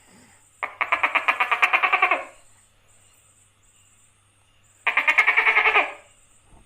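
A gecko calling: two bursts of rapid chirping, each about a second and a half long and a few seconds apart.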